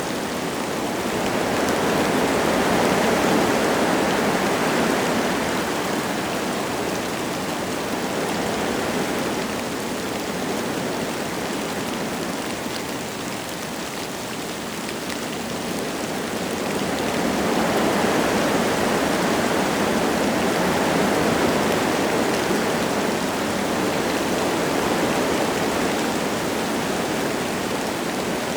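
Wind gusting through forest trees with light rain falling, a steady rushing hiss. The gusts swell a few seconds in, ease off around the middle, then swell again.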